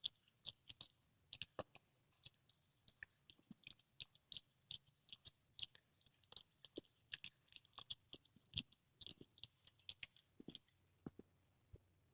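A cat chewing and crunching through a squirrel it has caught: many quick, irregular clicks and crunches, several a second, with a short lull near the end.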